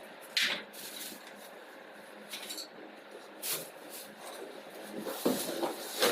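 Scattered handling noises: a few short clicks, knocks and scrapes at irregular intervals, the sharpest about half a second in and a cluster near the end.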